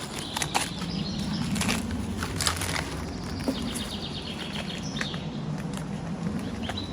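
Rustling with scattered sharp cracks and snaps of dry bark and forest litter, with a bird singing faintly in the background.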